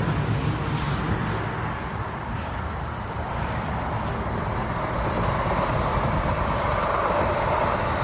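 Jet airliner engines: a steady low rumble with a rushing noise that grows louder from about five seconds in as the aircraft draws nearer.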